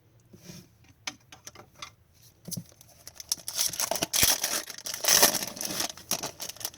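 A foil trading-card pack wrapper crinkling and being torn open, after a few light clicks of cards being handled; the crinkling gets denser and louder in the second half.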